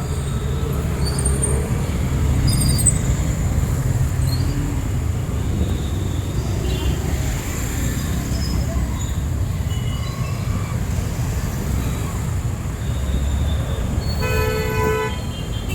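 Steady rumble of street traffic, with a vehicle horn honking for about a second near the end.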